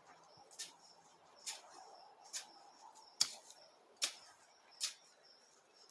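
A hand tool chopping into soil with six sharp, regular strikes a little under a second apart, as ground is worked for planting corn.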